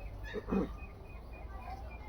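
Birds calling: one short low call about half a second in, then faint, high, short chirps repeating.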